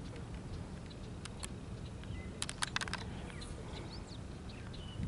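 Low steady rumble of a distant freight train rolling past, with a quick run of sharp clicks about two and a half seconds in and faint bird chirps.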